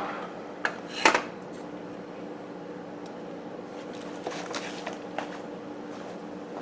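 Knocks and clatter of things being handled while clearing out an iced-up freezer, with one sharp knock about a second in and lighter knocks and rustling later, over a steady hum.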